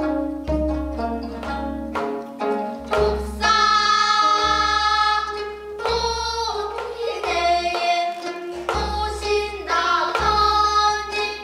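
Gayageum byeongchang: gayageum zithers plucking an accompaniment while the players sing a melody over it. The voices come in held notes from about three seconds in.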